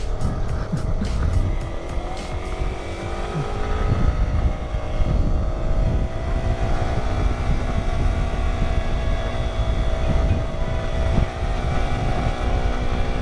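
Yamaha sport motorcycle's engine pulling up a steep hill road, its pitch rising over the first few seconds and then holding steady at cruise. Heavy wind noise rushes over the microphone.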